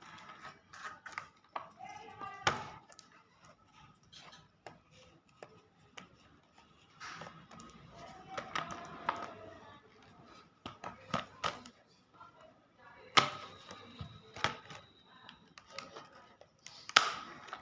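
Small cardboard retail box of wireless earphones being handled and opened by hand: scattered taps, clicks and rustling, with a few sharp snaps about 2.5 s, 13 s and 17 s in.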